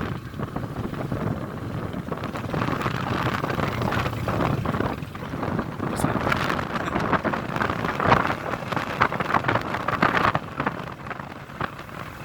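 A vehicle running along a road, with rumble, small rattles and wind buffeting the microphone.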